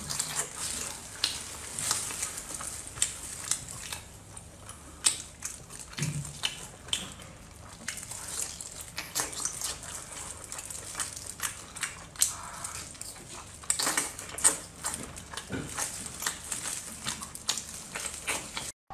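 Close-up eating sounds of chili-coated cooked seafood being bitten and chewed: irregular wet smacks, squelches and small clicks from the mouth.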